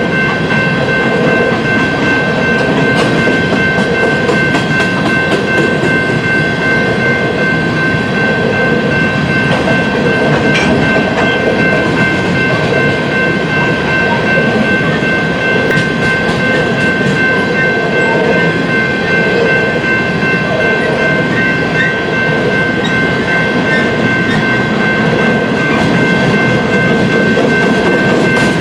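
A BNSF coal train rolling past close by: a loud, steady rumble of railcar wheels on the rails with some clickety-clack, and a steady high whine held over it throughout.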